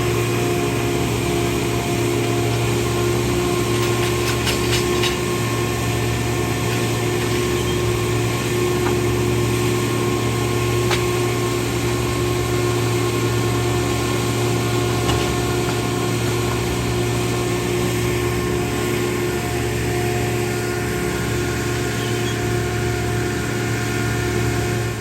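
A large engine running steadily at an even speed, with a few faint clicks over it.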